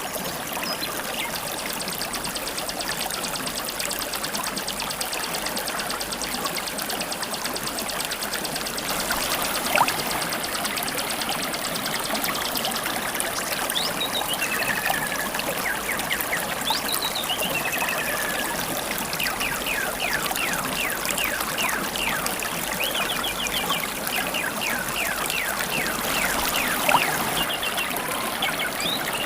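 River water running and babbling steadily. Over it, a fast, high, even trill goes on for the first dozen seconds or so, and wild birds give repeated short chirps and whistles through the second half.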